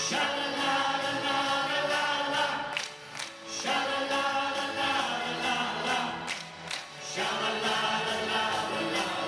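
Choir singing a 1970s pop song, held chords in phrases with short breaks about three and seven seconds in.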